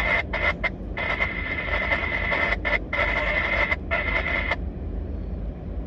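A railroad scanner radio giving out a burst of static with a steady tone in it. It breaks up several times and cuts off about four and a half seconds in, over a steady low rumble.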